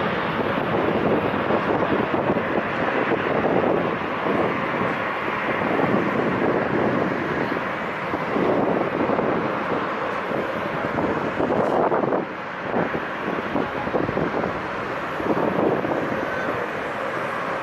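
Airliner jet engines running at takeoff power, a steady broad roar that swells and fades, with wind gusting on the microphone.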